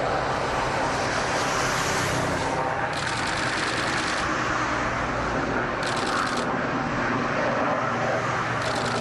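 Aircraft engine noise: a steady rushing sound with a low hum beneath it, and high hissy patches that come and go.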